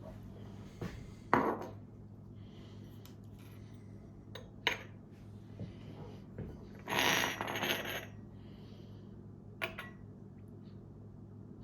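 Kitchen utensils clinking against dishes: three sharp, ringing clinks and a brief scraping rattle about two-thirds of the way through, over a steady low hum.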